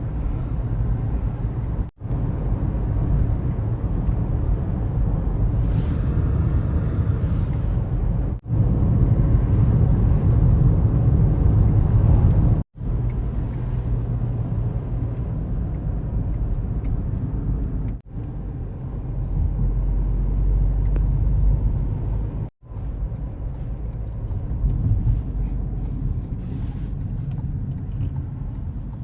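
A car driving on the road: steady low engine and tyre rumble. It breaks off into silence for a split second five times, at cuts between clips.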